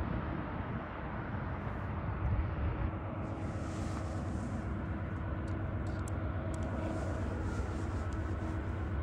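Low, steady rumble of a distant train approaching, with a faint steady hum over it.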